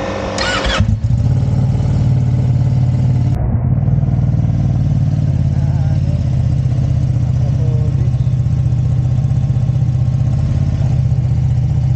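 Motorcycle engine that comes in suddenly about a second in and then runs at a steady idle.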